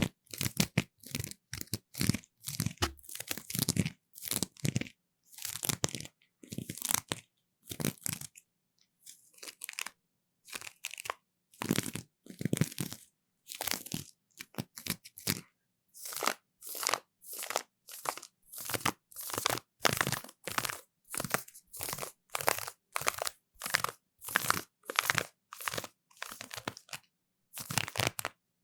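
ASMR 'ear flossing' trigger: floss drawn back and forth across the microphone, making short, crunchy, scratchy strokes, about one and a half a second. There is a fainter, sparser patch about a third of the way in.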